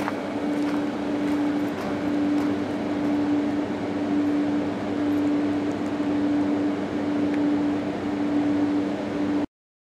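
Freight train of open ore hopper wagons on the track: a steady rumble with a steady hum through it. The sound cuts off suddenly near the end.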